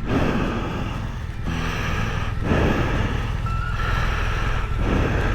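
Motorcycle engine running steadily, with rushing noise that swells and drops off several times over it.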